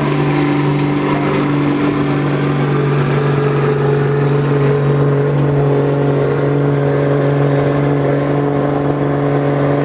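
1996 Dodge Ram 2500's 5.9-litre Cummins diesel running hard at steady, high revs under full load while pulling the weight sled. The pitch holds nearly constant, the sound of a run limited by traction rather than power.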